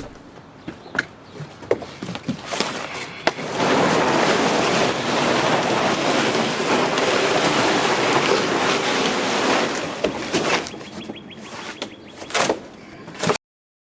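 A new GE clothes dryer being dragged, a steady scraping for several seconds. Scattered knocks and bumps come before it, and a thump comes near the end.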